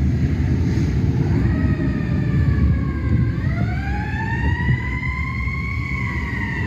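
Fire truck siren in a slow wail: the tone falls during the first seconds, then climbs gradually from about halfway through and starts to fall again near the end, over a steady low rumble.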